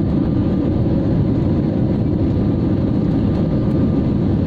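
Steady jet airliner cabin noise: a constant deep rumble of engines and airflow, heard from inside the cabin, with a faint steady whine above it.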